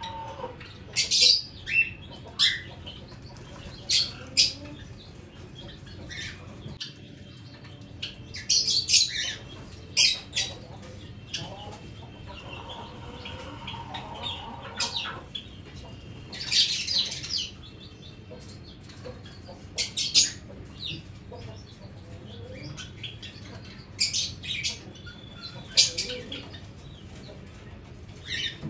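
Budgies in an aviary giving short, sharp high chirps in irregular bursts, mixed with fluttering of wings.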